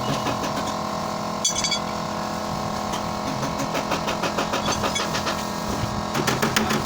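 A steady machine hum, like a running engine, under rapid even tapping at about five or six strokes a second. The tapping fades early on and returns near the end. A single sharp metallic clink comes about a second and a half in.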